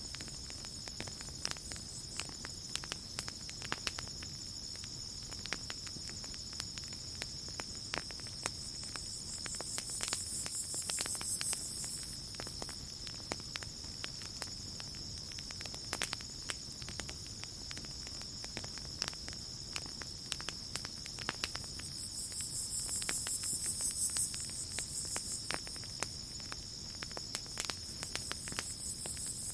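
Campfire crackling with scattered sharp pops, over a steady high trill of crickets. A louder, higher insect buzz swells up and fades twice, about ten seconds in and again past twenty seconds.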